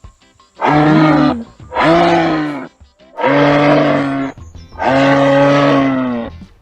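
A large animal calling four times: low, drawn-out calls, each about a second long, that drop in pitch at the end.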